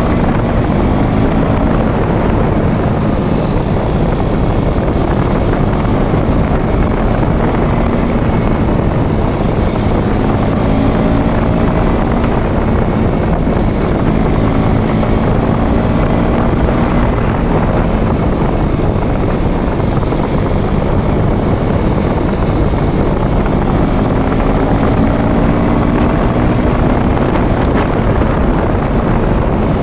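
Motorcycle engine running under way, its pitch gently rising and falling with the throttle, under heavy wind rush on the microphone.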